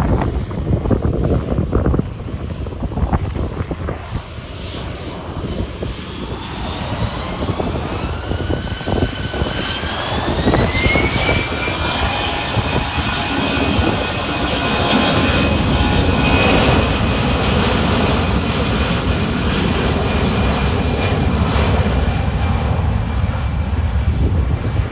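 Jet airliner's engines spooling up for takeoff: a whine rises for a few seconds and then holds steady at takeoff power over a low rumble. Wind buffets the microphone, most clearly in the first seconds.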